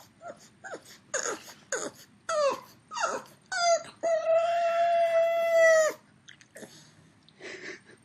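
A dog vocalising: a quick series of short whining yelps that fall in pitch, then one long, steady howl of about two seconds that stops suddenly, and a softer whine near the end.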